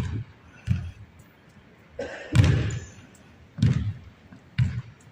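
Basketball bouncing on the court: five heavy thuds at uneven intervals, the loudest about two and a half seconds in.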